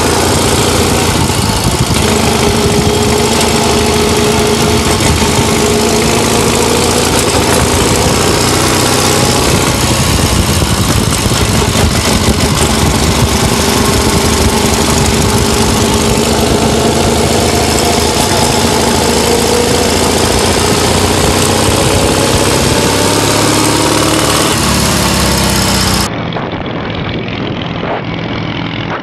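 1926 BMW R42's 500cc side-valve flat-twin engine running under way, its note rising and falling with the throttle. Near the end the sound cuts to a quieter, duller recording of a motorcycle engine running.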